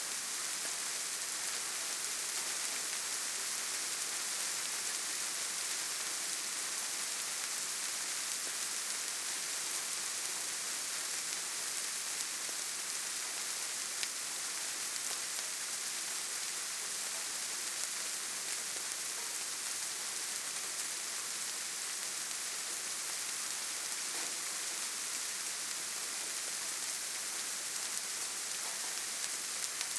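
Steady rainfall, an even hiss of many drops with faint scattered individual drop ticks.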